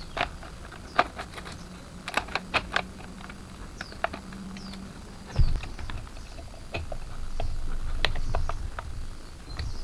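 Irregular light clicks and taps, more than a dozen, with faint short chirps high above them and a low rumble that swells in the second half.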